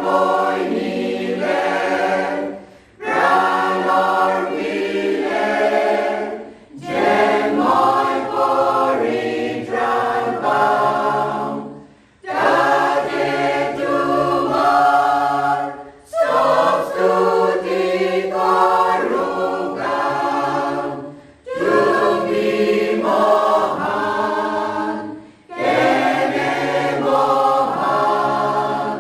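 A choir singing a cappella, in phrases of a few seconds each with short breaks between them.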